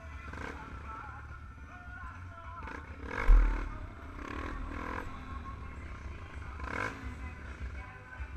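Motorcycle engines running at a motorbike meet, a steady low rumble mixed with background music, with one loud, sudden low thump about three seconds in.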